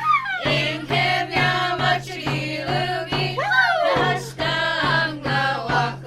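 A song: voices singing over instrumental backing, with a steady low note underneath.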